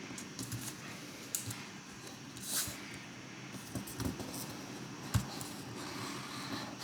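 Sheet of origami paper being handled and folded: soft rustling swishes with scattered sharp clicks and taps as creases are pressed.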